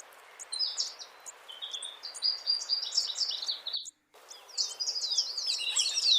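Marvelous spatuletail (a hummingbird) calling: clusters of rapid high chirps, then a run of quick downward-sliding notes near the end, over a steady hiss. The sound cuts out completely for a moment a little past halfway.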